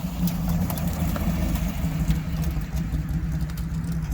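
A motor vehicle engine running at a steady low idle, with scattered light clicks over it.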